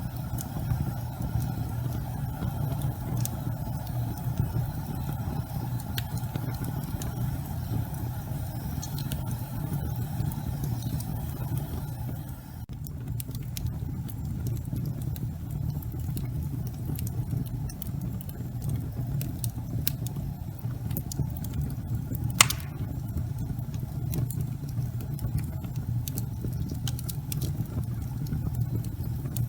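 Fire burning in a fireplace: a steady low rumble of flames with scattered small crackles, and one sharp, louder pop a little past twenty seconds in.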